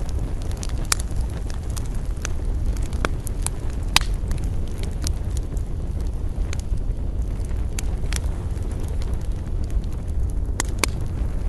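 Campfire burning: irregular sharp crackles and pops from the burning wood over a steady low rumble, with the loudest pop about four seconds in.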